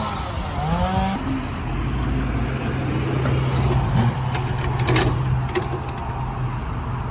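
John Deere tractor engine revving up, its pitch rising through the first second, then running at a steady pitch under load. Several sharp cracks sound over it in the middle stretch.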